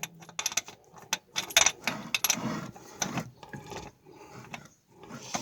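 Hand ratchet wrench clicking in short back-and-forth strokes, its pawl catching only about a sixteenth of a turn per stroke while tightening a nut in a tight space. The clicks come quickly for about three seconds, then thin out.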